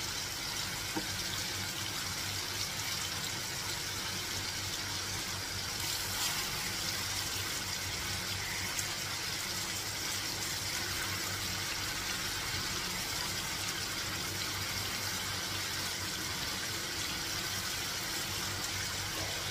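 Marinated paneer slices sizzling steadily as they shallow-fry in hot oil in a pan.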